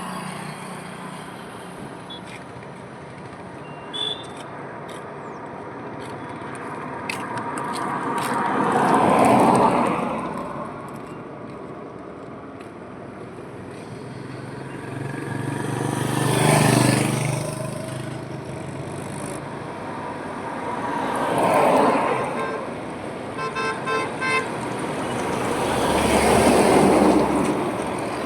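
Highway traffic: vehicles passing one after another, each swelling up and fading away, four passes in all, one with a deep engine hum. A few quick horn toots sound about three-quarters of the way through.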